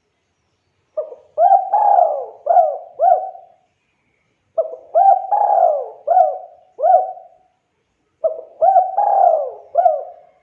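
Spotted dove (tekukur) cooing: three phrases of several hooting coos each, a phrase every three to four seconds.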